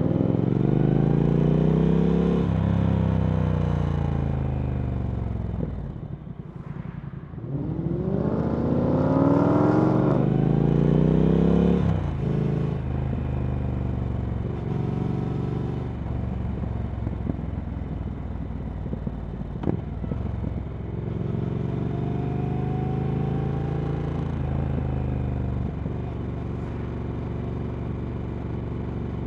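Triumph Speed Twin 1200's parallel-twin engine through a Vance & Hines slip-on exhaust, accelerating hard twice with the pitch climbing and falling back, then running at steadier, lower revs with a milder pull near the end.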